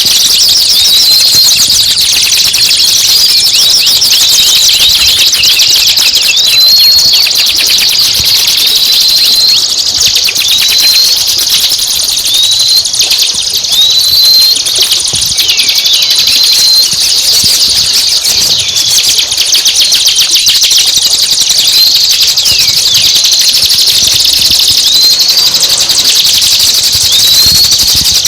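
Recorded songbird song used as a training track for caged birds: a dense, buzzy chattering with short rising whistled notes repeated every second or two.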